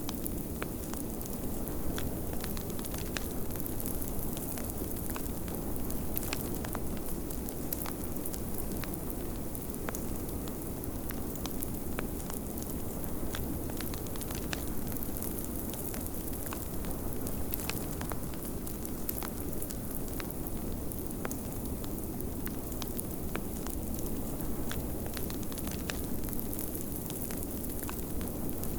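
Wood fire in a fireplace crackling, with frequent irregular sharp pops, over a steady low rush of snowstorm wind.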